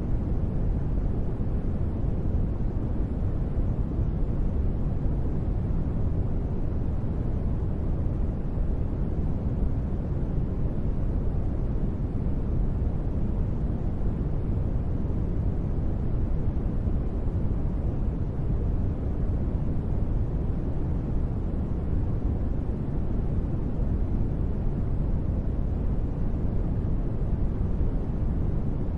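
Steady, unchanging noise, heaviest in the low range and dimming toward the top, with no tones or events: a synthesized noise bed for sleep and relaxation, sold as white noise though it sounds darker and deeper.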